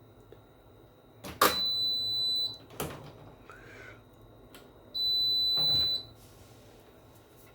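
Control panel of a Hotpoint NSWR washing machine beeping twice, each beep a single high steady tone lasting about a second. The first beep follows a sharp click, and there is another knock between the two beeps.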